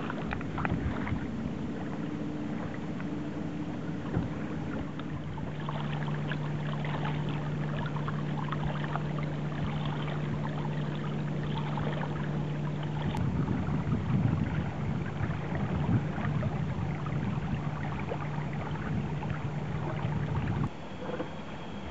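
Small sailboat under way: water washing and splashing along the hull, with wind. A steady low hum runs underneath from about five seconds in and stops abruptly near the end.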